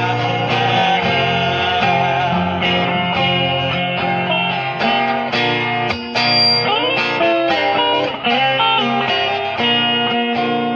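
Live band playing an instrumental break led by guitar over a steady beat, with notes bending in pitch partway through.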